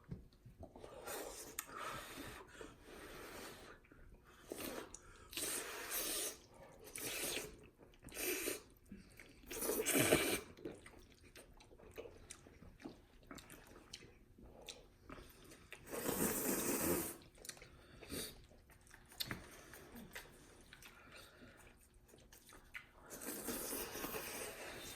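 Noisy slurping and chewing of cheesy ramen noodles in irregular bursts, the loudest about ten seconds in and a long slurp around sixteen seconds.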